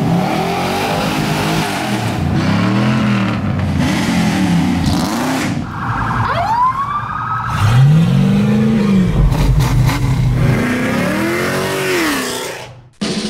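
Car engines revving again and again, each rev rising and falling in pitch, several overlapping. A sharper, higher rev climbs about six seconds in. The sound breaks off abruptly near the end.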